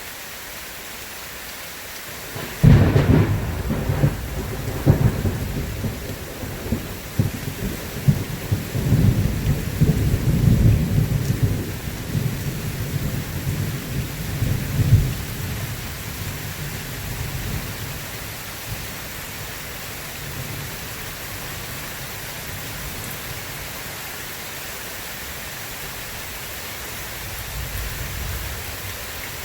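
Steady rain with a thunderclap that breaks out suddenly about three seconds in and rolls on in repeated rumbles for about twelve seconds before fading back under the rain. A softer low rumble swells briefly near the end.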